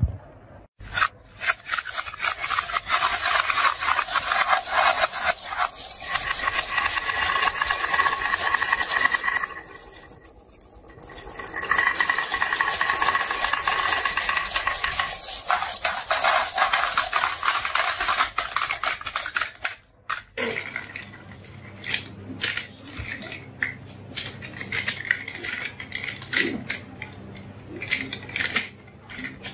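Marbles rolling and clattering down a marble run: a dense, steady rattle of many quick clicks for about eight seconds, a brief lull, then a second stretch of about eight seconds. After that come scattered single clicks and knocks as marbles drop and come to rest.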